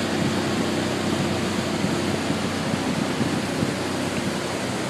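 Motorboat engine running steadily at full throttle, under a constant rush of water and wind noise.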